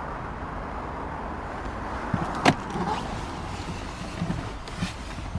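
Steady background rumble with a sharp click about two and a half seconds in and a few soft knocks around it and near the end.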